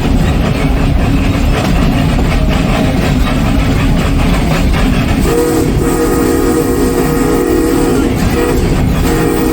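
Narrow-gauge 4-4-0 locomotive's whistle blowing, a long blast starting about five seconds in and another starting near the end, over the steady rumble of the moving train.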